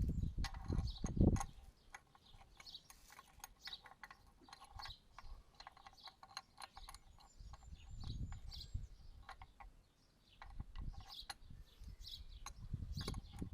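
Hand tools working on a mini digger's track pad bolts: irregular metal clicks and taps, with some ratchet clicking, and low rumbling knocks of handling at the start and again in the second half.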